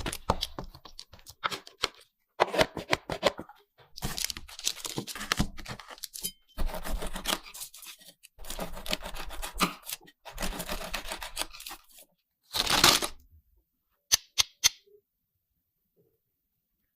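A Cadbury chocolate bar with nuts being torn open and eaten close to the microphone. The wrapper tears and crackles, and bites crunch, in irregular bursts of a second or two, with a few sharp clicks near the end.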